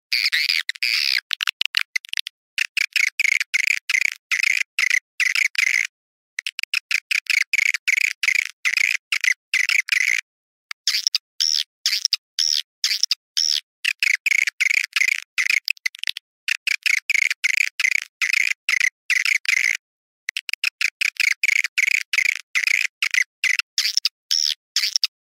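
Swiftlet call recording: rapid trains of high chirps and twittering clicks, in runs of a few seconds cut by short silent gaps, of the kind played as a lure call to draw swiftlets into a nesting house.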